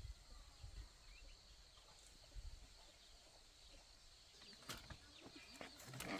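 Near silence with faint, scattered bird chirps and a few sharp clicks or knocks toward the end.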